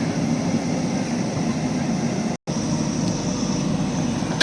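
JCB backhoe loader's diesel engine running steadily, with a brief total dropout a little past halfway.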